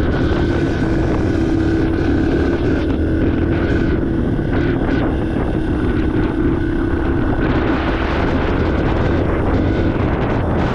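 2023 Yamaha TTR 230 trail bike's single-cylinder four-stroke engine running at a steady pace while riding, with wind buffeting the microphone.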